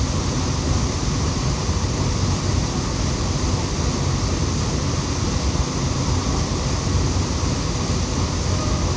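Waterfall running steadily: an even rushing noise, heaviest in the low end.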